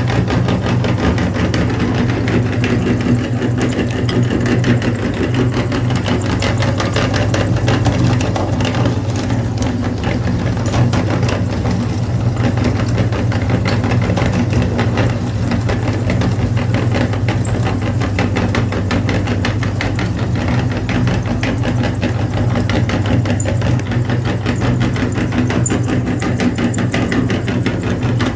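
Mini tractor's engine running steadily at an even speed, a constant low hum with a fast, even knock.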